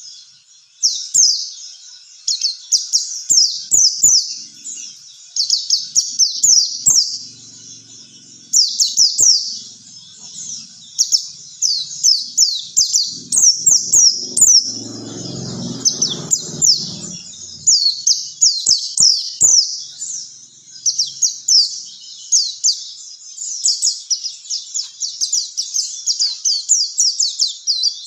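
White-eye (pleci) song: a rapid, continuous run of high, quick down-slurred chirps, repeated phrase after phrase, as in a bird-training song recording. A low rumble sits under it for a few seconds around the middle.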